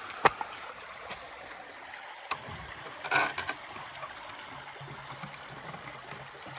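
River water running steadily, with a few sharp knocks: the loudest about a third of a second in, another just past two seconds, and a short clatter about three seconds in.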